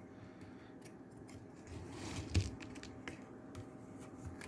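Faint handling noises: scattered small clicks and a soft rustle about two and a half seconds in, over a faint steady hum.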